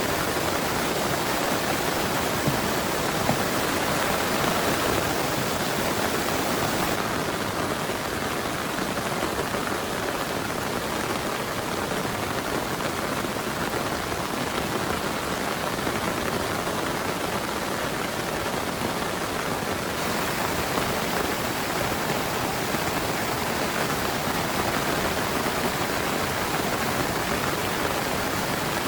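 Heavy rain pouring steadily, a dense, even hiss without letup.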